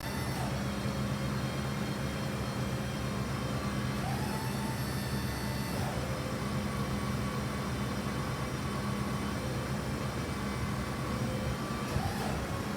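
Ford F-450's 6.8-litre V10 gasoline engine idling steadily.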